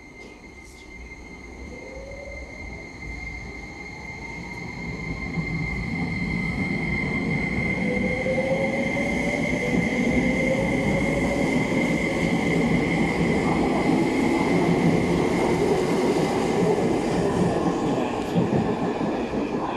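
Tobu Spacia X limited express pulling away after an emergency-brake stop, heard from inside the car. The electric motor whine rises in pitch while the rumble of wheels and running gear grows louder over the first ten seconds or so, then the train runs on steadily. A thin steady high tone sounds throughout.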